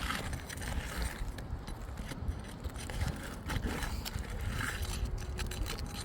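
Scraping and scattered light clicks of work on asphalt roof shingles, over a steady low rumble.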